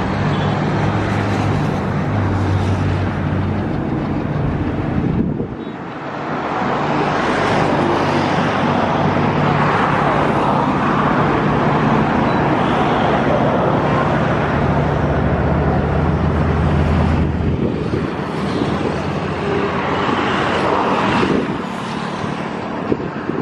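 Express train's passenger coaches rolling past on the track: a continuous rumble of wheels on rail that swells and fades, with a steady low hum underneath and a brief dip about five seconds in.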